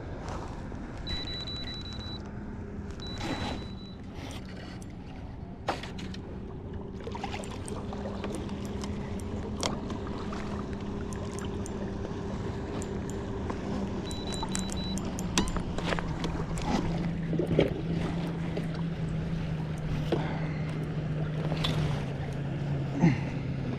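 Electric kayak motor humming steadily, its pitch stepping down twice as the speed changes, with water splashing and sharp clicks around it.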